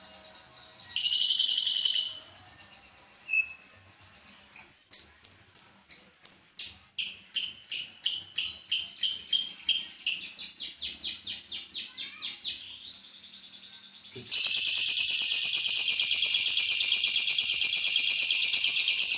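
Lovebird singing its long 'ngekek' chattering trill, high-pitched and shrill. About five seconds in it runs as rhythmic chirping pulses, about three a second, which then quicken and soften. From about fourteen seconds in it becomes one continuous dense trill.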